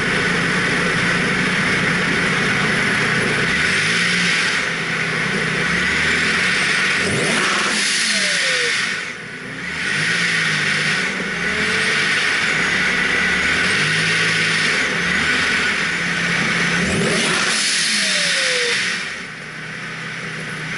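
Supercharged Nissan 350Z V6 with a Vortech V-7 YSi centrifugal supercharger making 29 psi, revving, with a loud jet-like supercharger whine over the engine. Twice, about seven and seventeen seconds in, the revs climb sharply and then drop away, the whine falling as they do.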